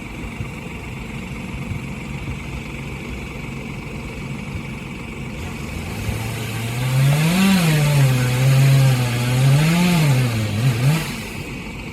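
An engine running steadily at a low pitch, then revved up and back down twice in the second half before it drops away near the end.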